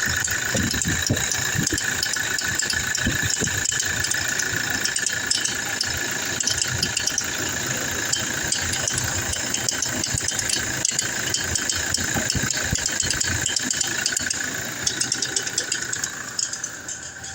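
2017 Toyota Hilux engine idling with a rapid clicking, creaking rattle from the front of the engine, which the owner traced to a faulty alternator pulley; the noise goes away with the alternator's signal wire unplugged. Near the end the sound drops and becomes uneven.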